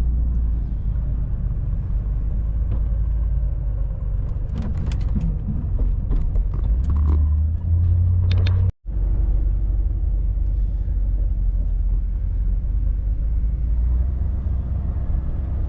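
1989 Chevy G20 van driving, a steady low rumble of engine and road, with a few light clicks and rattles partway through. The sound cuts out for an instant about nine seconds in.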